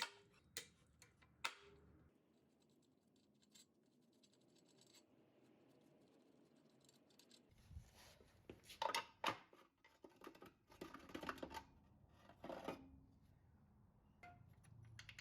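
Faint, scattered clicks and scraping of hand tools on metal while the cooling fan is taken off the engine. There are a few sharp clicks in the first second and a half, then near silence, then a busier run of clicks and scrapes in the second half.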